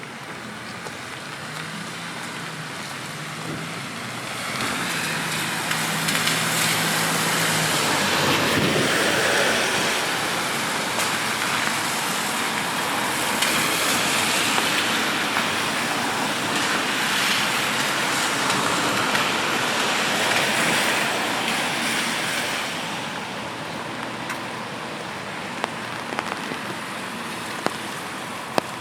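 Road traffic on a rain-wet street: tyres hiss on the wet road over steady rain. The hiss swells about five seconds in and eases after about twenty seconds, with a low engine hum under it until about eight seconds in.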